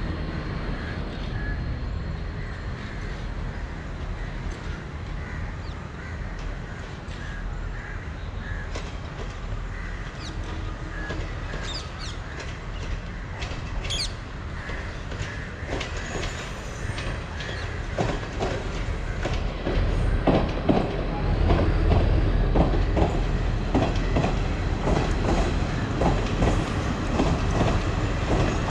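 Diesel multiple-unit passenger train approaching and running past, its low rumble growing louder past the middle, with the wheels clicking over rail joints as the coaches go by.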